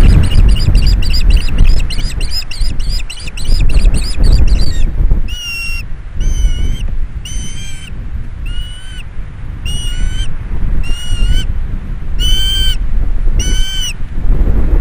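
Ospreys calling at the nest as a fish is delivered: a fast run of short, high chirps for about five seconds, then eight slower, drawn-out calls about a second apart. Wind rumbles on the microphone throughout.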